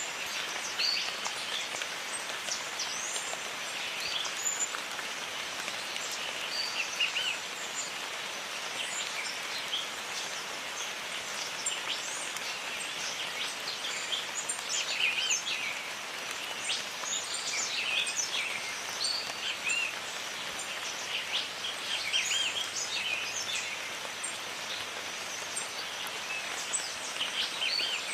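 Steady rain falling in a jungle, an even hiss, with many birds calling over it in short chirps and whistles.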